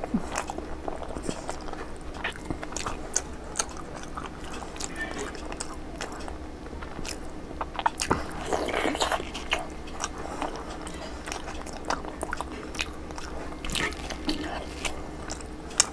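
Close-miked mouth sounds of eating a soft, syrup-soaked gulab jamun: wet chewing with many small clicks, and a longer squishy stretch about halfway through.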